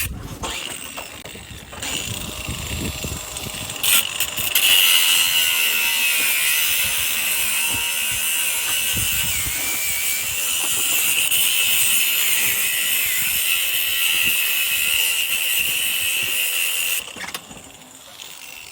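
Angle grinder cutting through a sailing yacht's metal rigging: a steady, high-pitched grind starting about four seconds in and cutting off suddenly near the end.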